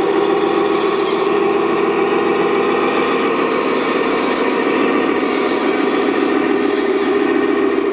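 Steady running of a 1/14-scale RC construction model machine: a continuous mechanical hum with several steady tones above it, holding even throughout.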